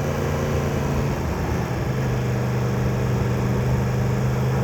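Yamaha MT-10 motorcycle's inline-four engine running steadily at low revs in low gear, its note dropping slightly about a second in.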